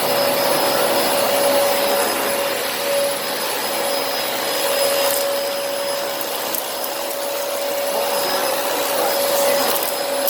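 Dyson DC25 upright vacuum cleaner running steadily, a rush of airflow with a steady whine, cutting off at the end.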